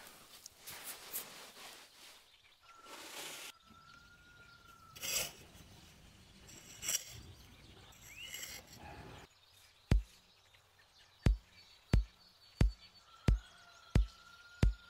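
Irregular scraping and rustling, then a run of sharp, evenly spaced taps, about one every 0.7 s, in the last five seconds. A thin whistle-like call is heard twice.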